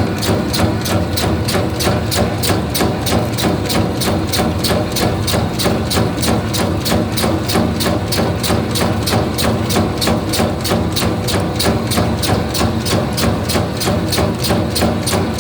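Meatball-forming machine running: a steady motor hum under an even, rapid clacking, about four knocks a second.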